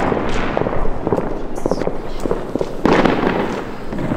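Fireworks going off: a string of sharp cracks and bangs, with a louder burst about three seconds in.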